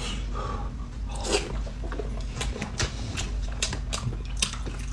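People biting and chewing food close to the microphone: irregular wet clicks and crunches, coming thicker from about a second in.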